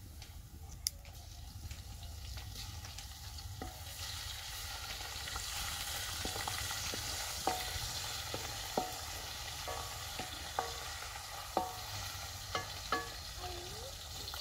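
Garlic paste frying with browned onions in hot oil in a metal pot: a sizzle that gets louder about four seconds in. A wooden spoon stirring the paste knocks against the pot's sides about a dozen times, each knock ringing briefly.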